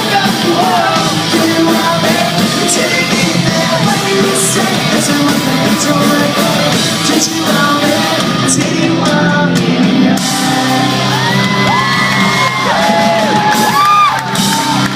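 Live pop-punk band playing loud in a club hall, with singing, full drums and electric guitars. In the last few seconds, whoops and yells from the crowd rise over the music.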